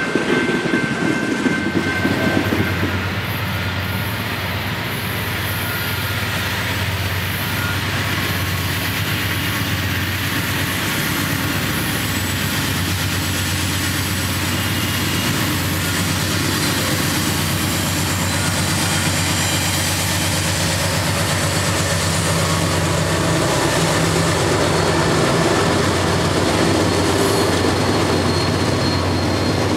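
Freight cars rolling past on the rails. A couple of seconds in this gives way to a Norfolk Southern GE C40-9W diesel locomotive running toward the listener, its engine drone slowly getting louder as it nears and passes, with autorack cars rolling behind it.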